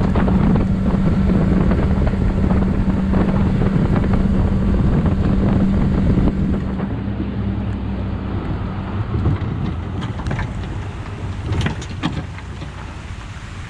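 Boat's outboard motor running under way, with wind buffeting the microphone; the steady engine hum eases off after about seven seconds.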